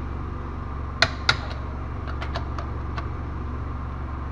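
Metal tool clicks while wheel nuts are tightened with a wrench: two sharp clacks about a second in, then a few lighter ticks, over a steady low hum.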